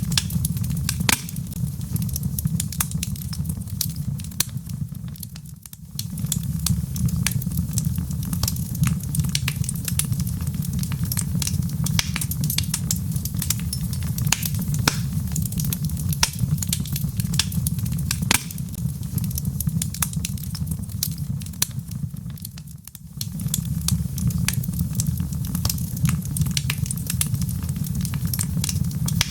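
Log fire burning in a fireplace: dense, irregular crackles and pops over a steady low rumble. The sound dips briefly twice, about six seconds in and again near the end.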